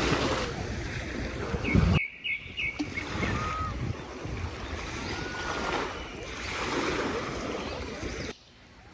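Sea waves washing onto the shore, with wind buffeting the microphone. The sound drops away abruptly near the end.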